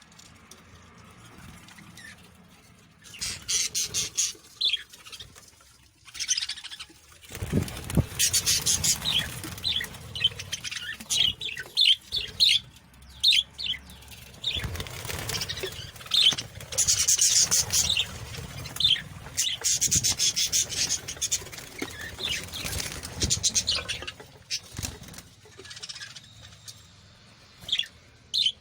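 Small birds chirping in many short, high calls, with repeated bursts of wing flapping and fluttering. A low rumble runs under the middle part.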